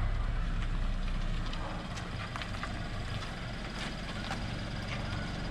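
A vehicle engine running steadily at low revs while the camper is manoeuvred into its parking spot.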